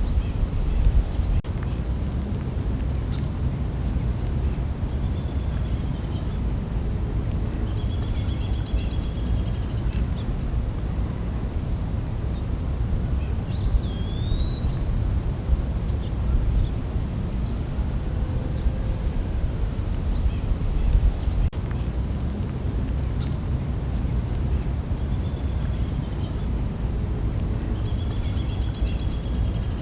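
Night forest insects: a steady high-pitched drone with crickets chirping in quick, even pulses. Short bird calls come in a few times over a constant low rumbling background noise.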